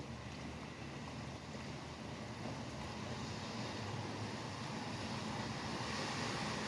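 Steady rain hiss mixed with highway traffic on wet pavement. The tyre hiss slowly grows louder as a vehicle approaches.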